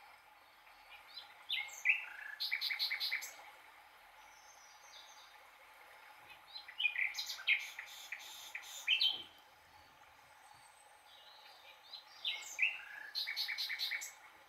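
A bird singing the same song three times, a few seconds apart. Each song is a few separate high notes and then a fast trill, over a steady faint hum.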